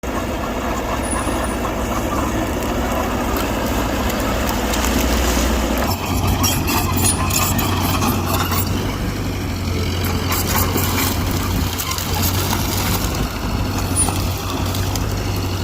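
Heavy diesel earthmoving machinery running steadily. The engine note shifts about six seconds in, and repeated metallic clanks and knocks follow over the next several seconds.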